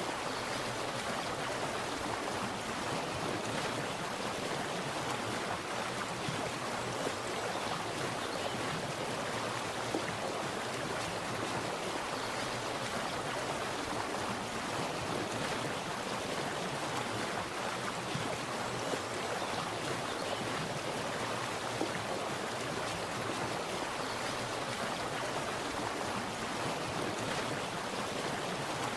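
Water splashing steadily, an even rushing noise that does not change or pause.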